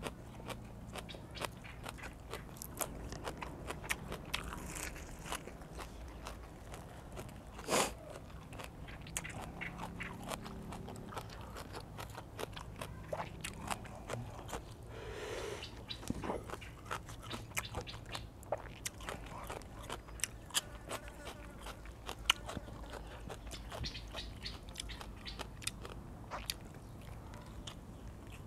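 Close-miked chewing: crunching fresh leafy greens with many sharp, wet mouth clicks and smacks, on and off throughout.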